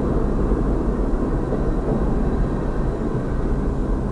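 Double-stack container freight train rolling past, a steady low rumble of wheels on rail heard from inside a vehicle's cab.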